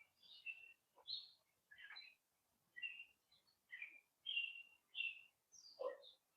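Faint bird chirps outdoors: a string of short, high chirps, roughly one every half second to second.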